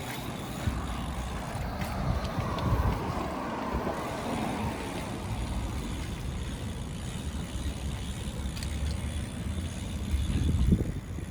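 Riding noise from a 29-inch BMX bike on the move: low wind rumble on the microphone with tyre noise. A louder whoosh falls in pitch between about two and five seconds in, and a louder gust comes near the end.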